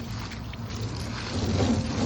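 Water spraying from a hose onto a plastic recycling bin during a rinse: a steady hiss of spray over a low hum, growing louder about halfway through.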